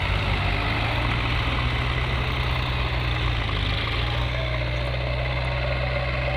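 Tractor diesel engine running steadily at low revs, a constant low hum.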